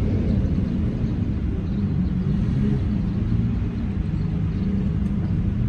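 Lamborghini Murciélago's V12 engine running at a steady low idle as the car creeps forward at walking pace.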